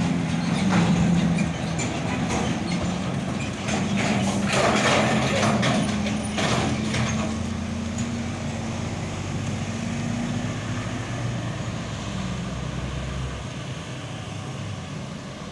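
A diesel truck engine running as the truck passes, a steady low hum with a burst of hiss about four to seven seconds in. It fades away near the end.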